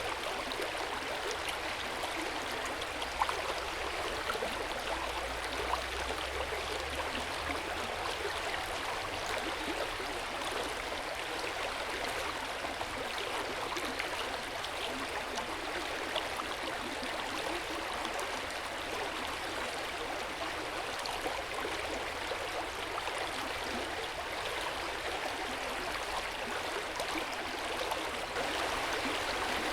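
Hot spring water pouring steadily into an open-air bath: a constant splashing, trickling flow dotted with small drips.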